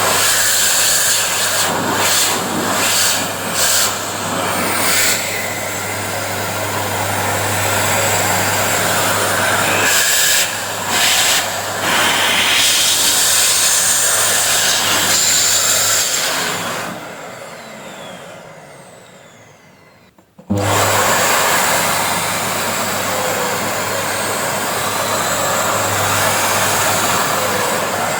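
Panasonic MC-CJ911 vacuum cleaner, fitted with a new 2000 W motor, running at full suction with a steady whoosh of air and no grinding from the bearings. The airflow dips briefly a few times. About halfway through the motor is switched off and winds down in falling pitch to near silence, then it starts again abruptly at full power.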